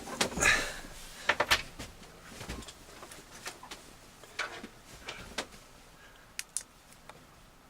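Scattered knocks and clicks of objects being handled, like panels or a locker lid being moved. The loudest come in the first two seconds, then fainter ones at intervals.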